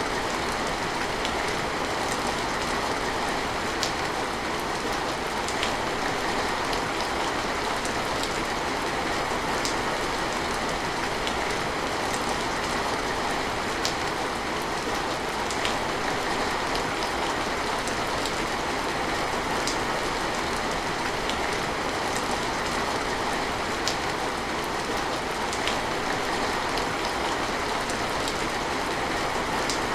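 Steady heavy rain, an even hiss with scattered sharper drop ticks, unchanging throughout.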